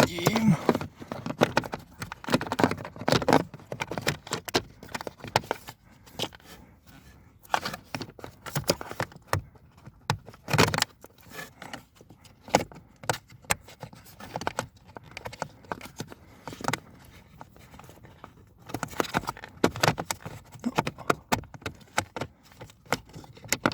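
Irregular clicks, taps and rattles of plastic parts and hand tools being handled as the VW Golf 7's HVAC temperature flap actuator is worked onto its mounting pin, with a sharper knock about ten seconds in.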